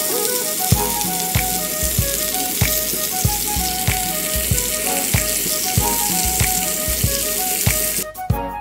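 Sesame-crusted tuna steak sizzling as it sears in oil on a ridged griddle pan over high heat, with background music and a steady beat playing over it. The sizzle cuts off about eight seconds in, leaving only the music.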